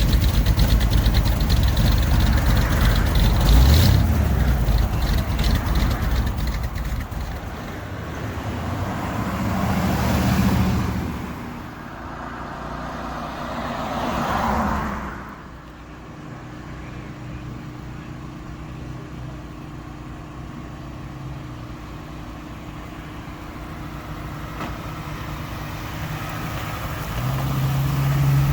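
Motor vehicle engines: a loud engine runs at first, two vehicles swell up and fade away about ten and fourteen seconds in, then an engine idles steadily and revs up, rising in pitch near the end.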